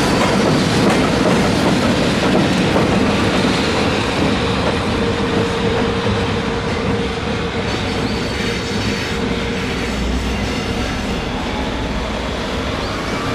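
Freight train rolling past with the clickety-clack of its wagon wheels over rail joints. A steady whine sounds through the middle of the passage, and the sound slowly fades as the train goes by.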